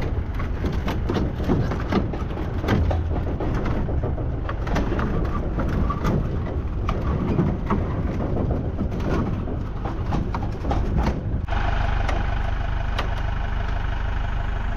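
An engine running under irregular clatter and knocks, then about eleven and a half seconds in the clatter stops suddenly and the engine settles into a steady idle.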